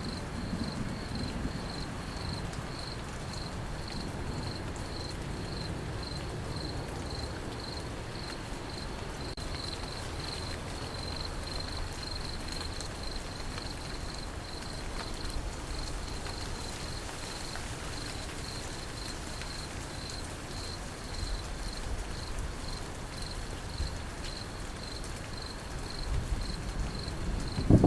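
Crickets chirping steadily in an even, high-pitched pulse over the steady hiss of falling rain; a low thunder rumble swells up right at the end.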